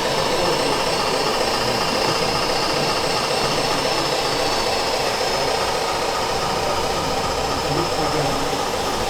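Steady mechanical whirring noise with a constant high whine, unchanging throughout.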